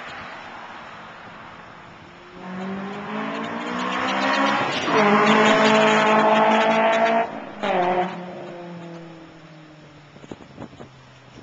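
Honda S2000's inline-four with a T1R V3 70 mm single exhaust and test pipe accelerating hard: a loud exhaust note climbs steadily in pitch. About seven seconds in it cuts off suddenly, comes back in a short burst, then falls in pitch and fades.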